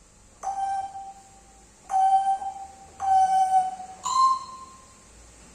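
Pet parrot whistling four held notes about a second apart, the first three on the same pitch and the fourth higher.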